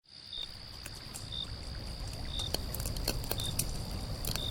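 Nature ambience fading in: gently running water underneath a steady high tone, short high chirps repeating about once a second, and scattered clicks.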